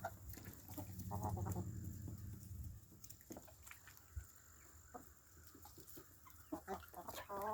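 Chickens clucking faintly, with a few short scattered clucks and soft calls, under a low steady hum in the first few seconds.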